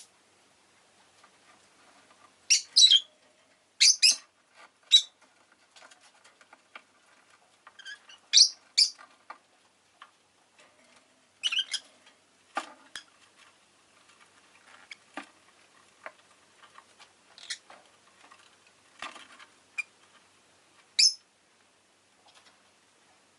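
Rosy-faced lovebird giving short, sharp, high-pitched chirps, about a dozen spread unevenly with pauses between them, with faint small ticks in the gaps.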